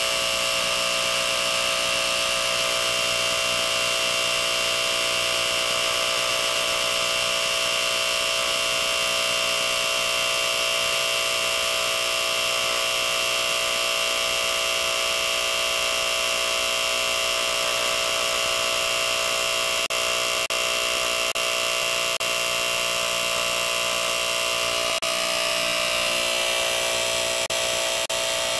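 Small electric motor of a Lionel 175 rocket launcher's gantry crane running steadily as the gantry travels back, a constant buzzing whine with a slight change in pitch about 25 seconds in and a few faint clicks near the end.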